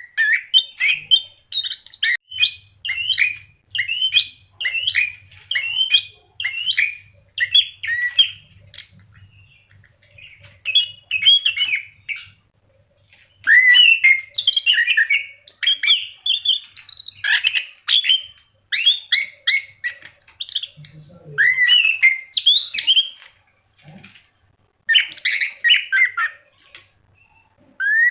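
Orange-headed thrush singing in full, energetic song: rapid, varied phrases of short gliding notes, with brief pauses around twelve and twenty-four seconds in.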